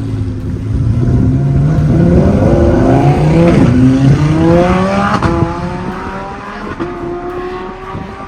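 Car engine accelerating hard, its pitch rising for about four seconds, then holding steadier and fading away.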